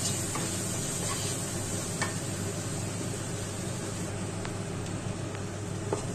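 Onions, tomatoes and green chillies sizzling in a non-stick kadai while a wooden spatula stirs them, with a few light taps of the spatula on the pan.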